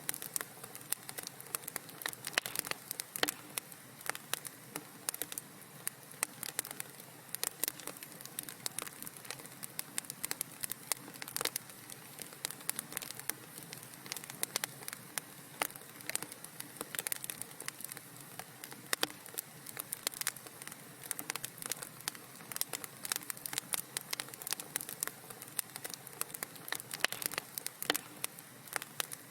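Wood fire crackling in a fireplace: constant irregular pops and snaps over a soft, steady hiss.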